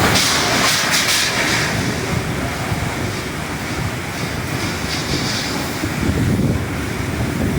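Strong storm wind blowing in gusts and buffeting the microphone with a continuous low rumble, a little harder in the first second or so.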